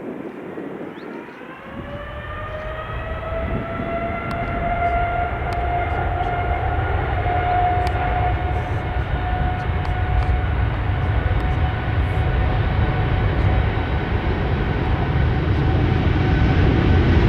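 Boeing 787-8 jet engines spooling up to takeoff thrust: a whine rises about a second and a half in and settles into a steady tone over a low rumble that grows steadily louder.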